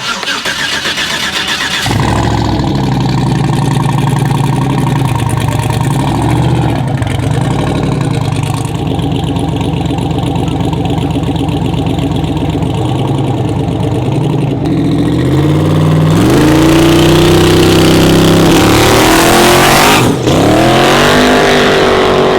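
Twin-turbo 4x4 truck engine held on the two-step launch limiter for several seconds, then launching and revving up in rising sweeps. Near the end the driver lifts off the throttle briefly, then the revs climb again.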